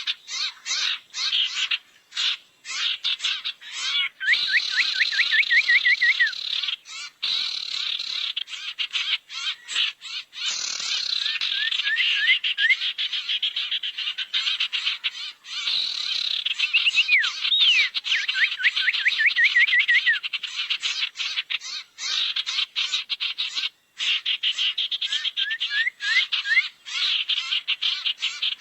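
Burung sirtu lure call: a fast, dense chattering with runs of short, quick whistled notes that recur every few seconds.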